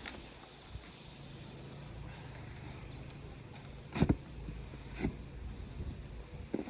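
Snow shovel striking and scraping the ground in two short sharp strokes, about four and five seconds in, with a smaller one near the end, over a low steady hum.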